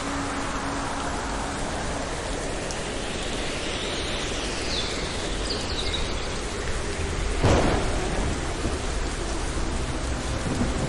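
Steady rain falling, with a sudden sharp crack of thunder about seven and a half seconds in and a low rumble after it.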